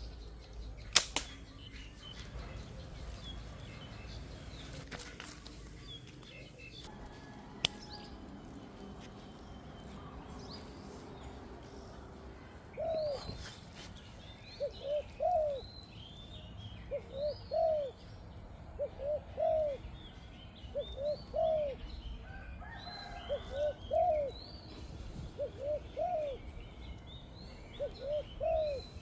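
Two sharp snaps about a second in and a third near eight seconds. Then, from about halfway through, a bird calls over and over in short rising notes, in twos and threes about every second and a half, with higher chirps above them.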